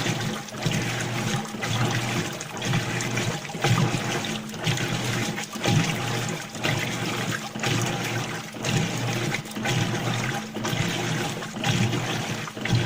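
Whirlpool washing machine filling: water gushing and splashing into the tub with a steady low hum, the fill now working after the repair.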